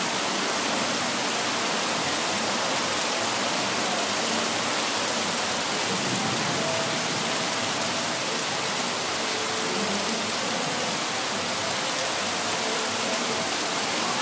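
Heavy rain falling in a steady downpour, with water pouring off a roof edge in streams.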